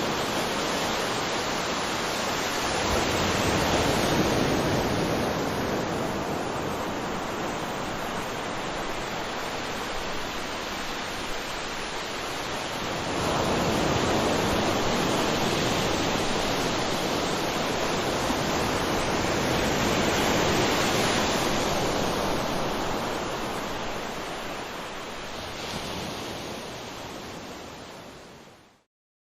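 Ocean surf washing onto a beach: a continuous hiss of waves that swells and ebbs in slow surges, then fades out near the end.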